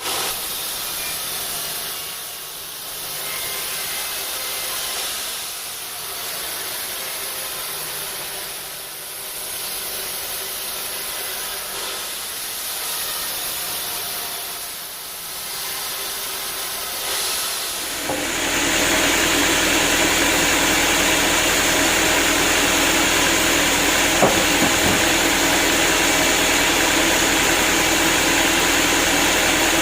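Sawmill blade cutting through a hard acacia log, a hissing noise that swells and fades every few seconds. About eighteen seconds in it becomes louder and steadier, with a steady machine hum running under the cut.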